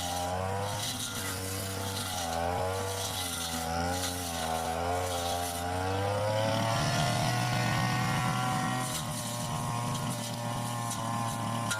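Backpack brush cutter's engine running under load while cutting undergrowth. Its pitch wavers up and down as the throttle and cutting load change, and climbs to a higher, steadier speed about six seconds in.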